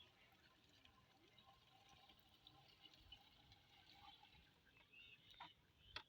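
Near silence: faint background noise with a few soft ticks.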